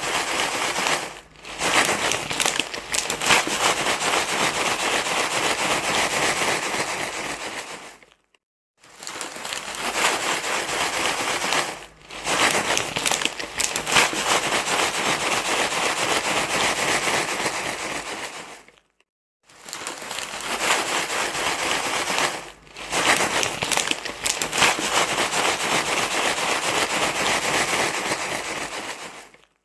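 Dense, continuous crinkling rustle, like material being crumpled and rubbed, in long stretches of about eight to ten seconds broken by brief silences, twice in the middle and once near the end.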